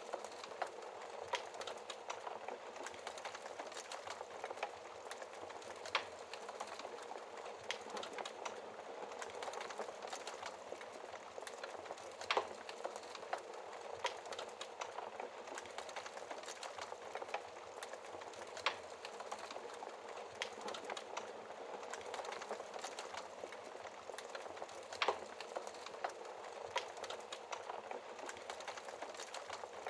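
Wood fire burning in a fireplace: a steady hiss with irregular crackles and sharper pops every few seconds.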